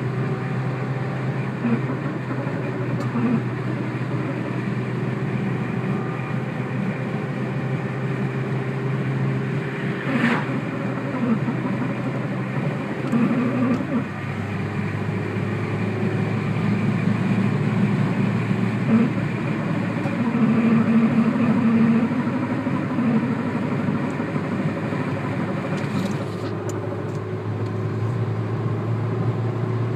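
Peugeot 106 S16's 16-valve four-cylinder engine and drivetrain running with a steady hum that drops slightly in pitch about halfway through. It carries an abnormal noise on deceleration that is not yet identified, suspected to be rubbing in the transmission or a driveshaft.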